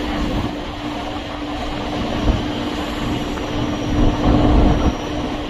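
Electric suburban train running along the line: a steady rumble of wheels on track with a constant hum.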